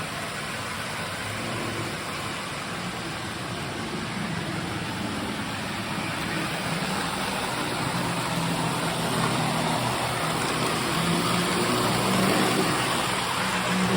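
Several postwar Lionel O-gauge trains, including Santa Fe 2343 F3 diesels, running around three-rail track: a steady rolling rumble of wheels on tin-plate rail with the electric motors' low hum, swelling gradually as a train draws nearer toward the end.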